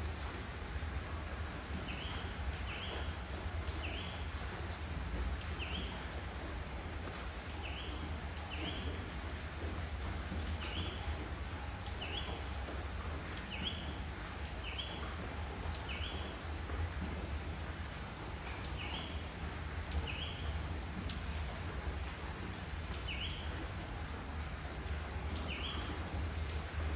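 A bird repeating a short rising chirp roughly once a second, over a steady low background rumble.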